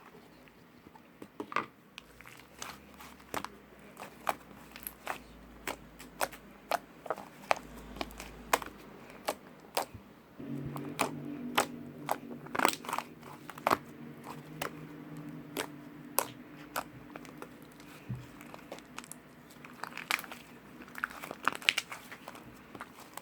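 Slime being squeezed and poked by hand, giving a steady run of sharp clicks and crunchy crackles. A low hum comes in about ten seconds in and stops some seven seconds later.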